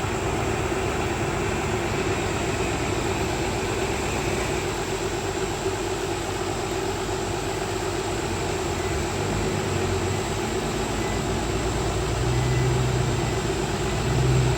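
Heavy diesel machinery running steadily, with a deeper engine hum that grows louder near the end.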